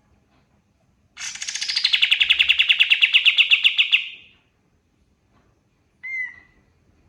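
Pied triller (kapas tembak) singing: a loud, fast trill of rapidly repeated notes lasting about three seconds, opening higher and then settling steady. About two seconds later comes one short single call.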